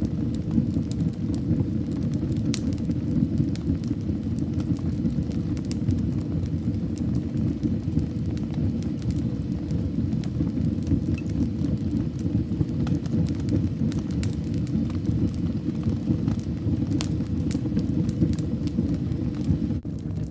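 Wood fire burning in a fireplace: a steady low rumble of flames with frequent crackles and sharp pops from the burning logs, a few louder pops standing out.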